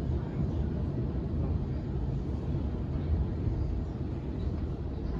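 Interior rumble of a Sydney Trains Waratah A set electric train, a steady low running noise with no distinct motor whine standing out.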